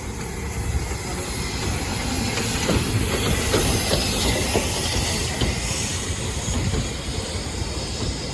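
A train running past on the rails: its noise builds to a peak in the middle and eases off, with scattered clicks of the wheels over the track.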